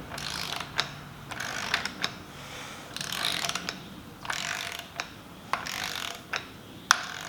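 Hand ratchet wrench worked in repeated strokes, each stroke a short burst of pawl clicking, about one a second, running a bolt down on the engine's front end until it takes up.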